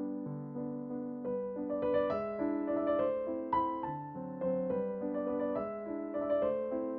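Background piano music, a melody of notes changing in a steady rhythm.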